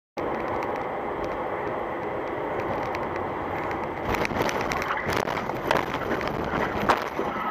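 A car driving, as picked up by a dash-cam microphone: steady road and engine noise, with several sharp knocks and rattles in the second half, the loudest shortly before the end.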